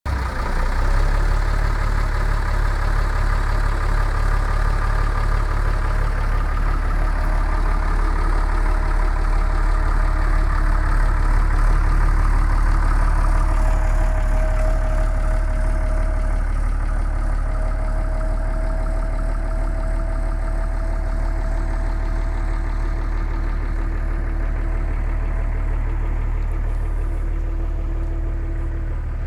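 AEC Merlin bus's diesel engine idling steadily while it warms up after six months standing, with a faint steady whine joining about halfway through.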